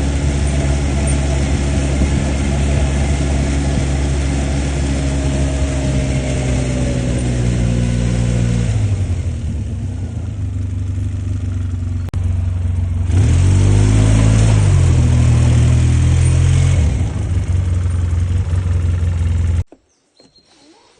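ATV engine running, easing off about nine seconds in, then revving up again with rising and falling pitch; the sound stops abruptly near the end.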